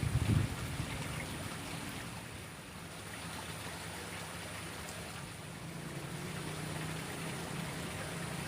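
Water flowing steadily in a small ditch, with a few handling bumps right at the start.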